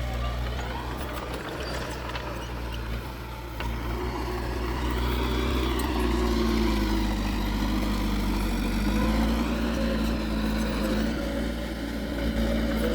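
Heavy diesel engine of earthmoving machinery running continuously. Its pitch rises and falls as the load changes, and it gets a little louder about four seconds in.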